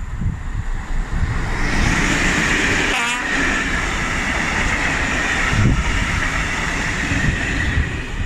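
Train passing on the line, a steady loud rushing noise that builds about a second and a half in, with a brief warbling sound about three seconds in.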